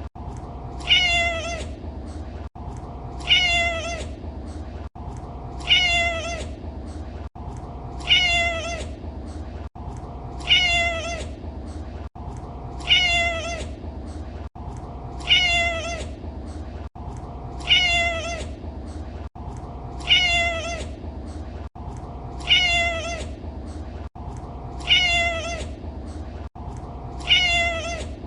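Domestic cat meowing, the same single meow repeated about every two and a half seconds, a dozen times over, each one a short call falling in pitch. Under it runs a steady low hum, and there is a brief dropout between repeats, where the recording loops.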